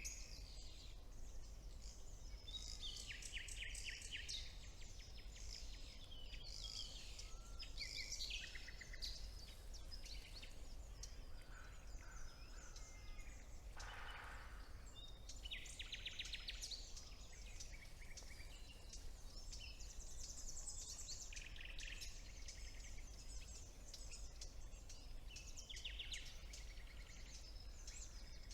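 Several songbirds singing at once in a woodland chorus: overlapping trills and rapid phrases, one after another, over a faint steady low hum.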